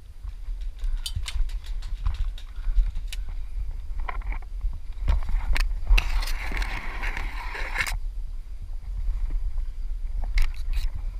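Scattered single sharp cracks of semi-auto airsoft guns over a low rumble of movement and handling on a body-worn camera. About six seconds in there is a two-second burst of hissing, rustling noise.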